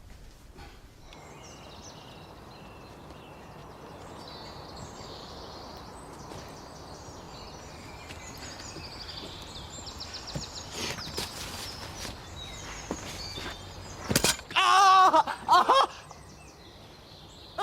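Outdoor ambience with birds chirping. About 14 s in there is a sudden thud, followed by a loud, wavering cry.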